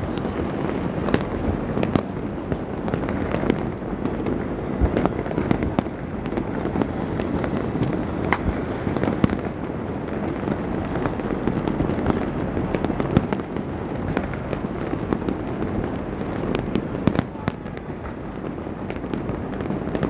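Many fireworks and firecrackers going off at once: a continuous, dense crackle of overlapping bangs, with sharper single cracks standing out every second or so.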